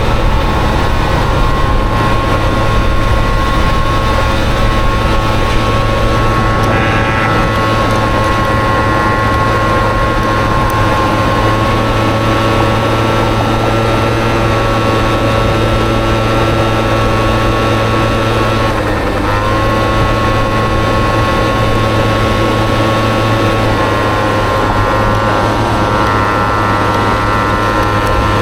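Honda Motocompo's swapped-in Honda Dio 50 cc two-stroke scooter engine running at fairly steady revs under way, with a brief dip in revs and a quick recovery about two-thirds of the way through.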